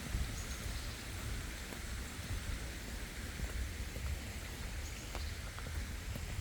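Steady hiss of water drops falling on leaves and the ground in wet woodland, with scattered faint ticks of single drops over a low rumble.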